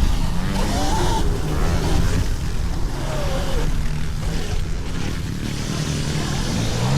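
Pit bikes running on a dirt track, with a steady low drone and a few short rising and falling pitch sweeps as the bikes rev.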